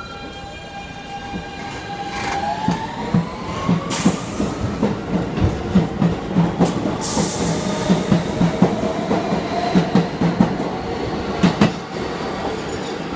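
R160B Siemens subway train getting under way: its propulsion motors whine, rising in pitch as it gathers speed, while the wheels clack repeatedly over rail joints. Two short hisses of air come about four and seven seconds in.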